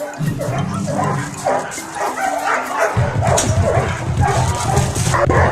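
Several dogs barking and yipping at once, over a low hum that gets louder about three seconds in.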